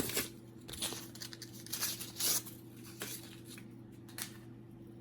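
Several short crinkling, rustling handling noises, spread across the first four seconds, as printer fuser parts are handled by hand, over a steady low electrical hum.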